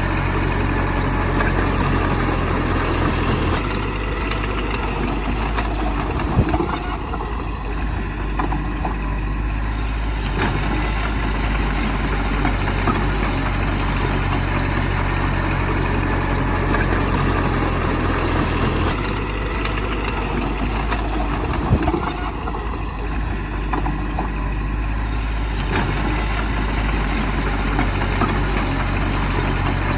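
Heavy earthmoving machine's diesel engine running continuously under changing load. Its note shifts about 3.5 seconds in and again just before 19 seconds, and a sharp knock comes a few seconds after each shift, in a cycle that repeats about every 15 seconds.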